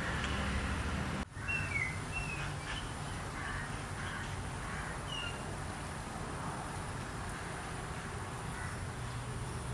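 Outdoor ambience: a steady low hum with a handful of short, high bird chirps, most of them in the first few seconds. The sound cuts out for an instant about a second in.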